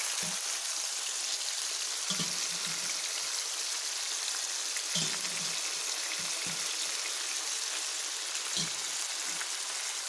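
Chopped tomatoes, bell peppers and onions sizzling steadily in hot oil in a frying pan as boiled beef pieces are added, with a few soft knocks.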